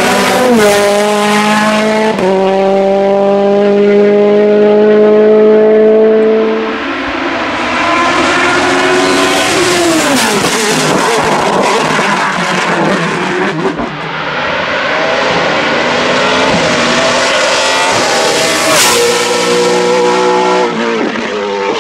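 Hillclimb race car engines at full throttle. One car's note drops at two quick upshifts, climbs steadily under acceleration, then cuts off about seven seconds in. A rougher, noisier stretch of passing engine and tyre sound follows, and near the end another car accelerates hard through quick gear changes.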